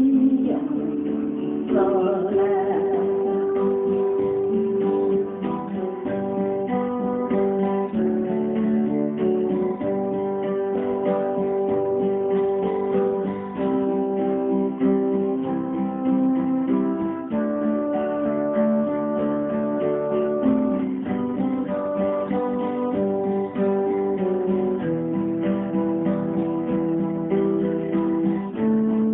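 Acoustic guitar strummed and picked, playing a song accompaniment with notes changing steadily.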